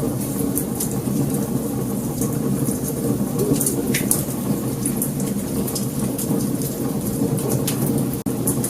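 Wood fire burning, with many sharp crackles and pops over a steady low rumble of the flames. A split-second gap in the sound comes near the end.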